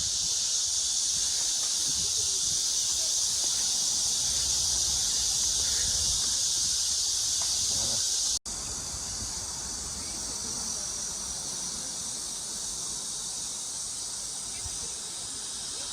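Cicadas in full summer chorus: a steady, high, continuous buzz. It cuts out for an instant about eight seconds in, then carries on a little quieter.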